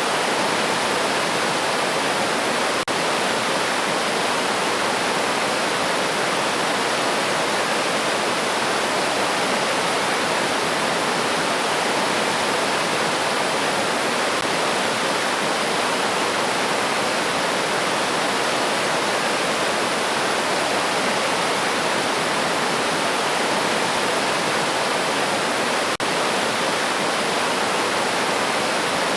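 River water rushing steadily, an even flowing sound with no birdsong heard, broken only by a split-second dropout about three seconds in and again near the end.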